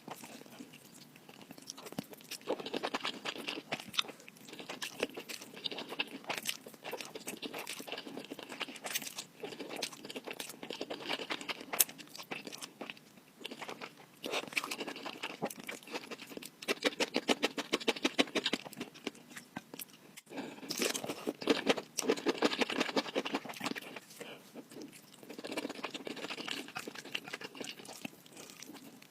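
Close-miked eating: a person chewing and crunching food in bursts of rapid chews, a few seconds each, with short pauses between them.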